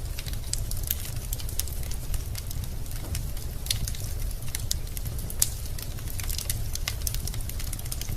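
Wood fire burning in a fireplace: burning logs crackle in irregular sharp pops and snaps over a steady low rumble. One louder pop comes about five and a half seconds in.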